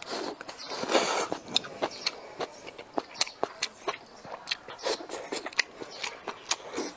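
Close-miked biting and chewing of braised meatballs. There is a noisy bite in the first second, then many short wet mouth clicks and lip smacks as the food is chewed.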